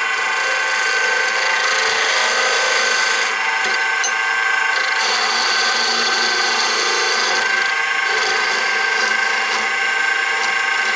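Wood lathe running with a steady whine while a turning tool cuts into the spinning wood to trim it. The scraping hiss of the cut swells and drops every second or two as the tool is pressed in and eased off.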